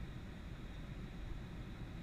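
Steady low rumble and hiss from a Boeing 747-400's engines and airflow, with no change in level.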